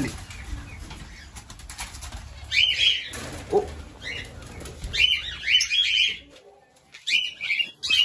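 Small cage birds flapping their wings as they flutter loose and are grabbed by hand, with short bursts of sharp, high-pitched chirps and squawks coming several times.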